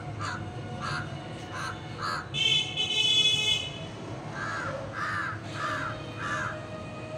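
A bird calling repeatedly in short, harsh calls, with a louder, drawn-out higher call lasting about a second, about two and a half seconds in, then four more short calls.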